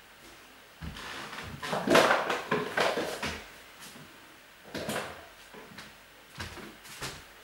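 Objects being handled and moved, with irregular knocks and rustling in a small room; the busiest stretch is from about one to three seconds in, with more knocks near the end.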